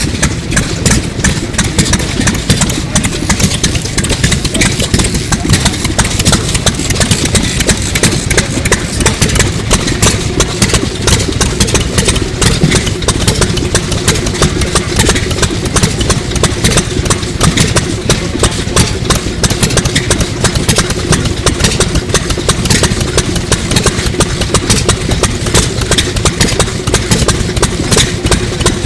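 Sato 2 hp hot-bulb semi-diesel engine from around 1933 running steadily at idle, with an even, unbroken beat of firing strokes.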